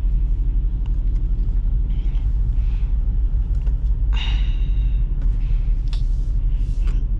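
Jeep Grand Cherokee SRT's 6.4-litre V8 running with a mid-muffler delete, heard from inside the cabin as a steady low rumble with road noise from the wet road, and a brief higher sound about four seconds in.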